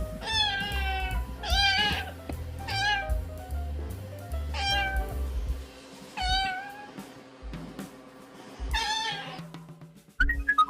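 Six drawn-out meows, each sliding down in pitch, spaced about one to two seconds apart, over background music.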